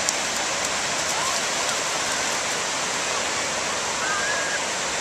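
Steady wash of ocean surf on the beach, with faint distant voices.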